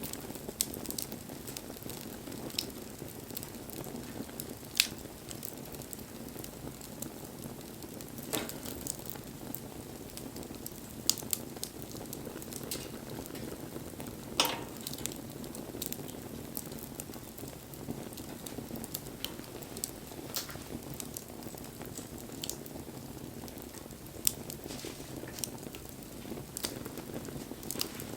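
Wood bonfire burning: a steady hiss of flames with scattered crackles and sharp pops, a few of them louder than the rest.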